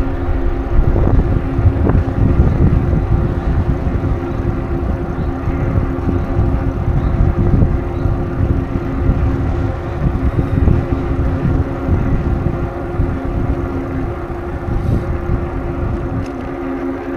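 Wind buffeting the microphone of a camera riding on a moving bicycle, with a steady low hum underneath.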